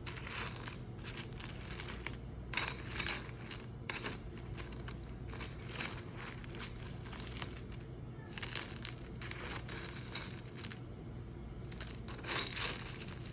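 Irregular rustling, tearing-like handling noises as air-dry clay is pulled apart and worked by hand, in short strokes with brief pauses.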